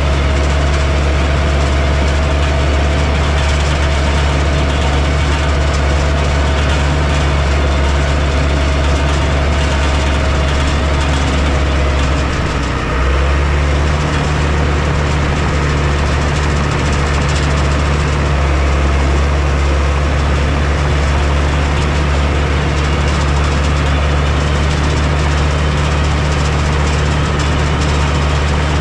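Heavy diesel engine of a construction machine running steadily with a deep drone. A faint whine sounds alongside it and stops about twelve seconds in, just as the engine sound briefly dips.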